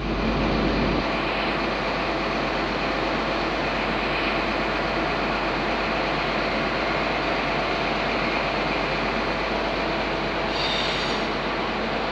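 Eurostar train running past, a steady rumble and rush of wheels on rail, with a brief high squeal near the end.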